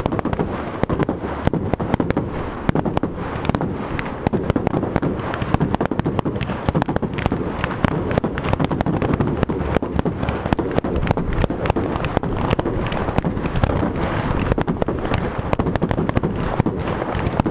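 Fireworks going off in a dense, continuous barrage of sharp bangs and crackles, with no pause.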